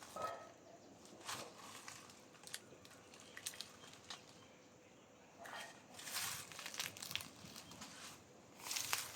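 Dry leaves crackling and rustling in irregular bursts, with louder stretches past the middle and near the end.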